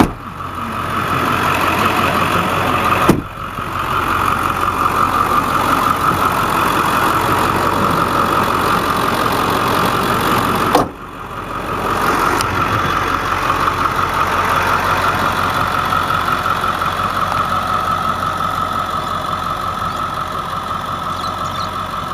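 Ford 7.3-litre Power Stroke V8 turbo diesel idling steadily, with its rapid diesel clatter. The sound drops out abruptly three times, at the start, about three seconds in and about eleven seconds in, and comes back each time.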